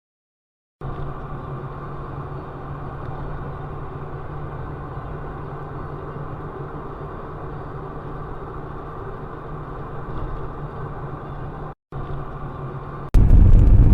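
Steady engine and road noise of a moving car heard from inside the cabin, with a low steady hum. About thirteen seconds in it cuts abruptly to a much louder recording.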